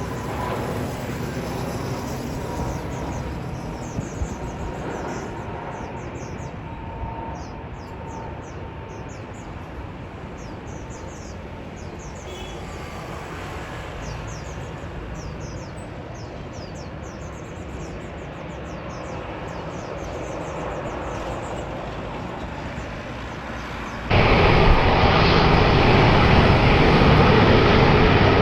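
Jet airliner engine noise, steady, with a faint whine. Near the end it jumps abruptly to much louder jet engine noise.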